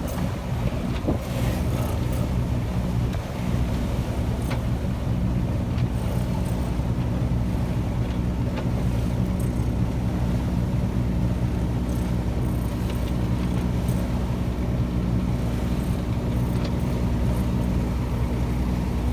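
A sailboat's engine running steadily under power, a low even drone, with a few faint knocks here and there.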